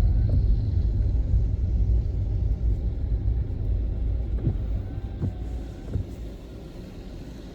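Low rumble of a car driving, with a few faint knocks, fading steadily toward the end.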